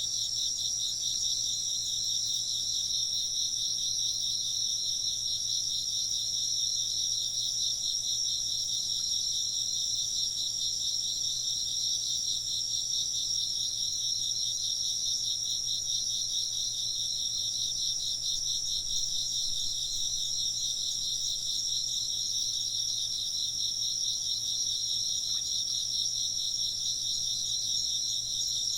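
A steady chorus of chirping insects: a continuous, rapidly pulsing high trill that holds at an even level throughout.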